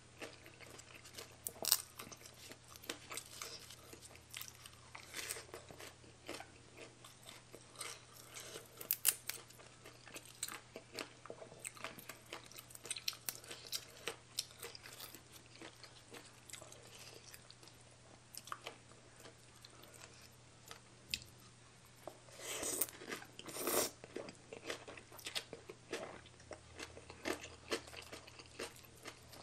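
A person chewing and biting into spicy baby cuttlefish salad with fresh leafy greens: a run of short crunches and bites, with a louder cluster of crunches about three quarters of the way through.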